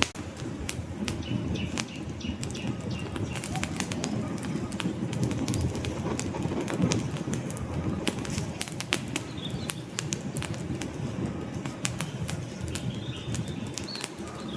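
Wood fire burning in a fireplace: a steady low flutter of flames with frequent sharp crackles and pops from the logs.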